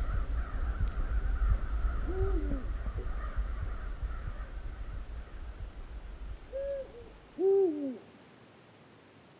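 Three low, arched bird calls, the last one the loudest, over a low wind rumble that cuts off suddenly about seven and a half seconds in.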